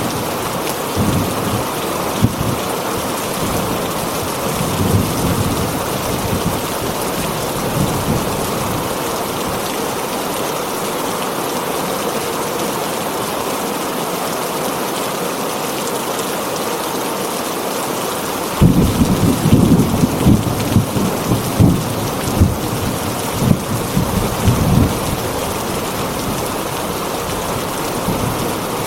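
Heavy rain drumming steadily on a tin roof, with thunder rumbling low in the first few seconds and a louder roll of thunder breaking in suddenly about two-thirds of the way through, then dying away after several seconds.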